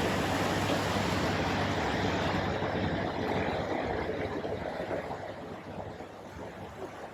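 A boat under way: a motor humming low beneath rushing water, growing quieter toward the end.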